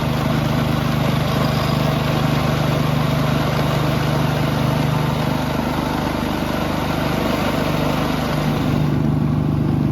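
Small internal-combustion engine of a ride-on miniature locomotive running steadily under way, a constant low drone with a rushing noise over it.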